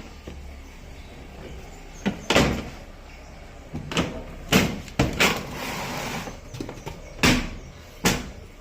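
A washing machine's hard plastic parts being handled: a series of sharp knocks and thumps, about eight over several seconds, with a brief scraping rustle in the middle.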